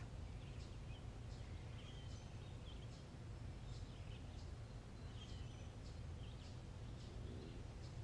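Wild birds chirping, a scatter of short, faint, high calls, over a steady low background rumble.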